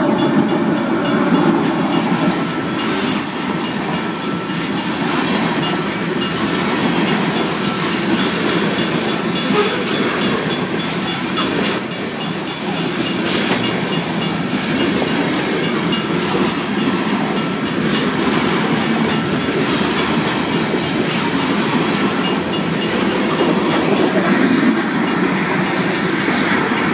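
A Union Pacific grain train rolling through a level crossing: the diesel locomotive passes at first, then a long string of covered hopper cars follows, their steel wheels clacking over the rails. The crossing bells ring throughout.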